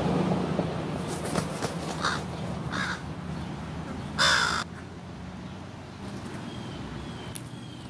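American crows cawing: two short caws about two and three seconds in, then a louder, longer caw about four seconds in. A rushing noise fills the first second, and faint high chirps from a small bird come near the end.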